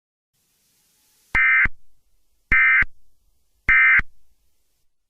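Emergency Alert System end-of-message signal: three short bursts of digital SAME data tones, about a second apart, marking the end of the alert.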